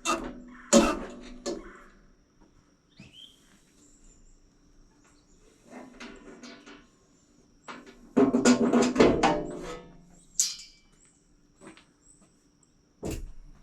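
Metal clanks and rattles as the covers of a Wood-Mizer LT40 band sawmill are handled and taken off: a few sharp knocks at the start, a longer clatter with ringing about halfway through, and a single knock near the end.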